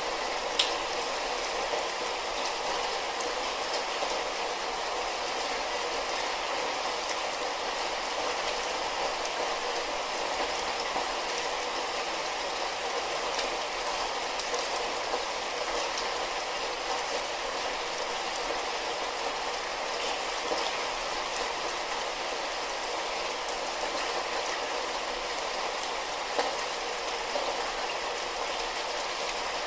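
Light rain falling steadily, an even hiss with scattered drops ticking sharply.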